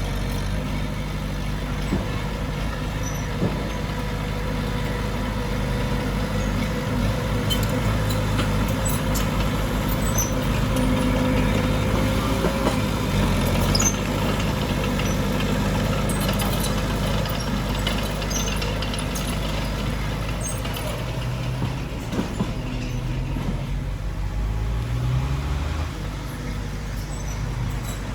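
Heavy diesel earthmoving machinery running steadily, with the engine pitch rising near the end as it revs up.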